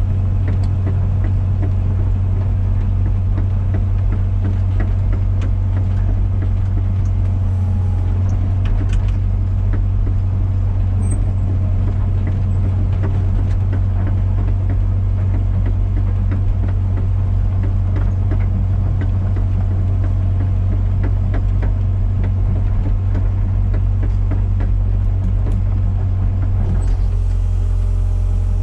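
Komatsu PC120-6 excavator's diesel engine running steadily under work, with scattered short clicks and knocks. Near the end the engine note shifts as the load changes.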